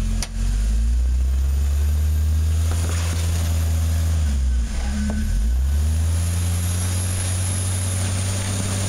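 Jeep Wrangler's engine running at low revs as it crawls over boulders, its pitch dipping briefly about halfway through and then picking up again.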